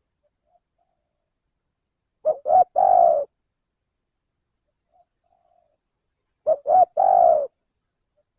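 Male spotted dove cooing: two three-part calls about four seconds apart, each two short notes followed by a longer final coo, with a few faint soft notes in between.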